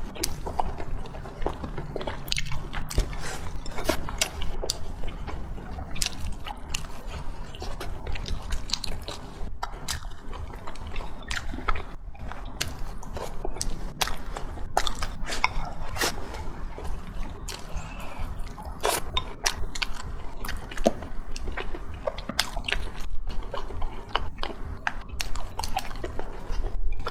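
Close-miked chewing and biting while eating braised chicken and fried rice: a continuous run of irregular wet mouth smacks and crunchy clicks, over a steady low hum.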